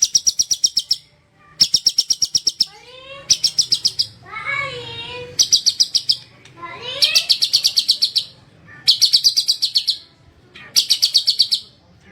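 White-rumped shama singing: a series of loud, rapid rattling trills, each about a second long, repeated roughly every one and a half seconds. Rising and falling whistled notes come between the trills.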